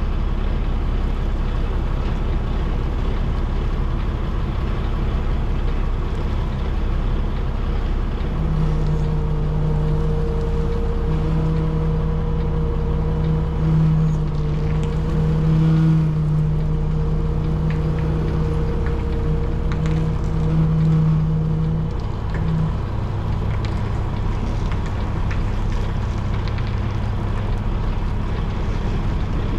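Semi truck's diesel engine running at low speed, heard from inside the cab, while the rig backs slowly into a parking space. It is a steady low rumble with a droning tone that swells from about eight seconds in and fades a little after twenty seconds.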